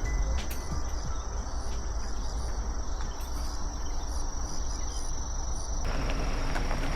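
Outdoor ambience with insects trilling steadily at a high pitch over a low background rumble; about six seconds in the background changes abruptly to a broader hiss.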